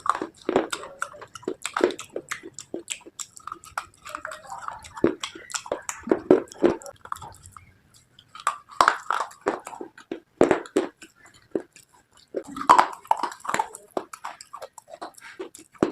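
Someone biting and chewing pieces of slate, close to the mic: sharp, irregular cracks and crunches in clusters, with a couple of brief pauses between bites.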